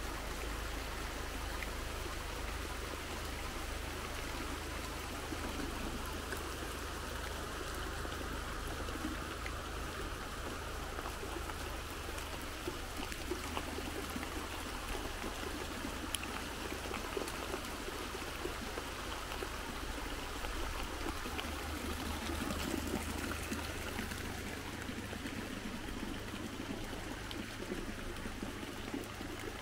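Steady rain, with runoff water pouring and trickling off a roof's edge and along the ground.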